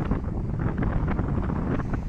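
Swollen river rushing in heavy flow after typhoon rains, with wind buffeting the microphone in a steady low rumble.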